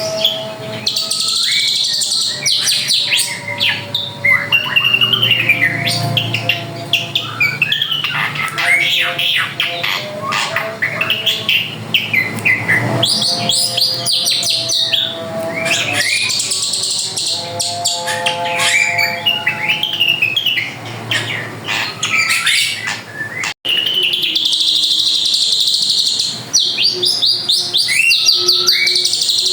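A drongo singing a long, varied song of clear whistles, pitch glides and rapid buzzy trills in repeated phrases. The sound drops out for an instant about two-thirds of the way through.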